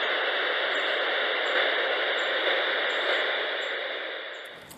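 Steady hiss of radio-style static, fading out near the end.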